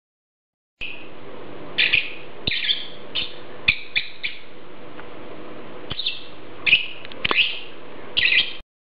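Blue-and-yellow macaws squawking: about a dozen short calls in irregular clusters over a faint steady hum, starting about a second in.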